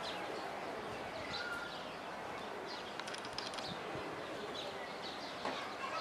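Faint, scattered high bird chirps, about one every second, over a steady outdoor background hiss.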